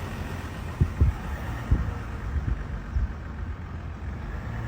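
Steady low rumble of a car driving slowly, heard from inside, with a few dull low thumps in the first three seconds.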